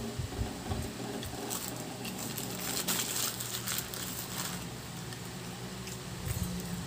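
Close-up chewing of a chicken sandwich, with irregular small crackles and rustling of its paper wrapper, over a steady low hum.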